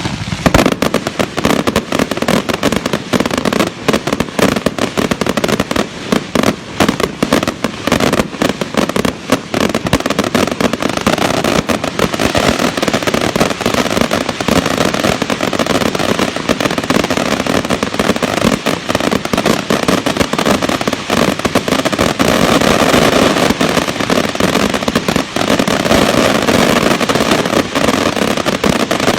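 Fireworks and firecrackers going off without a break: a dense run of rapid bangs and crackles, packing into an almost continuous crackle near the end.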